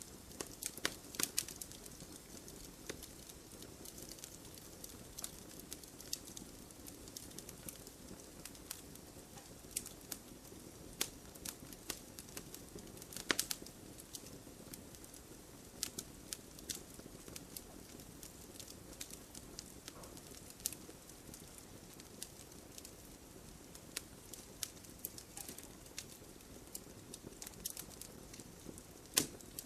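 Wood campfire crackling: irregular sharp pops and snaps over a soft, steady rush of flame, with a louder pop about halfway through and another near the end.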